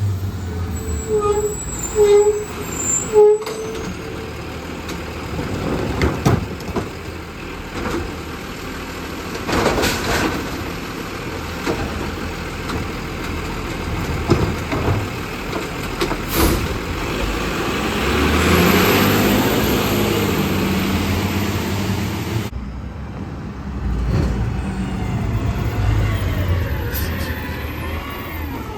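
Garbage truck's diesel engine running, with three short beeps about a second apart near the start. About two-thirds of the way through comes a long hiss of released air.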